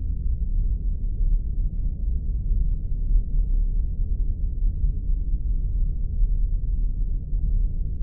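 Spaceship ambience sound effect: a steady, deep rumbling drone, all of it low in pitch, unchanging throughout.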